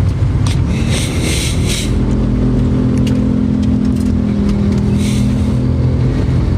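Steady car engine and road hum heard from inside the cabin, with a few light clicks.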